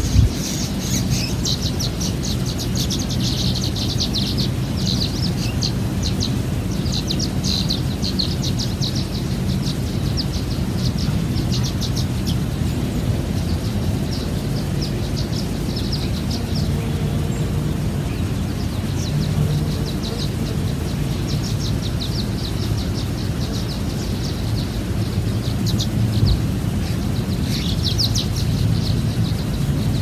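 Wild birds singing outdoors, quick high chirps and trills, dense in the first half and again near the end, over a steady low rumble.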